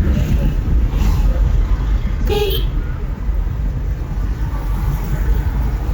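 Low, steady rumble of a car's engine and tyres heard from inside the moving vehicle, with a brief pitched toot about two and a half seconds in.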